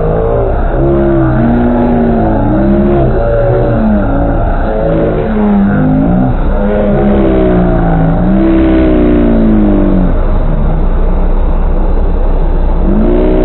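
A vehicle's engine revving up and down again and again, its pitch rising and falling every second or two over a steady low rumble, as it labours through mud.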